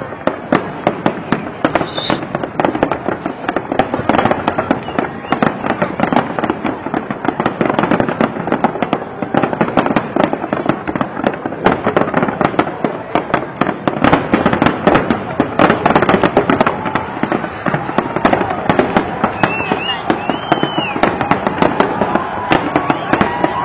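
Large fireworks display: a continuous, dense barrage of bangs and crackling from many shells bursting together. A few brief high whistles about twenty seconds in.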